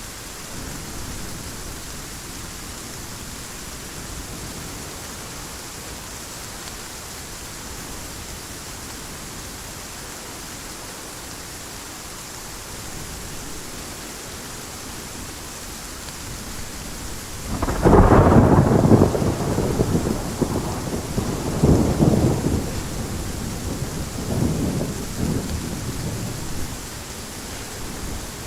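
Steady heavy rain, with a loud rolling thunderclap about two-thirds of the way through that rumbles on in two further, weaker surges before fading.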